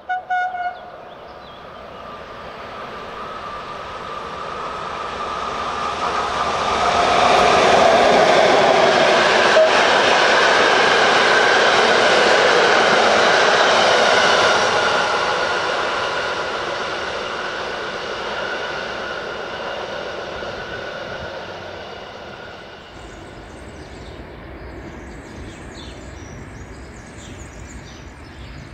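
FS E 646 electric locomotive and its train of coaches passing through a station. A short horn note sounds at the very start. Then the running noise of the locomotive and wheels on rails builds to a loud peak for several seconds and fades as the coaches go by. Near the end a quieter outdoor background follows, with short high chirps.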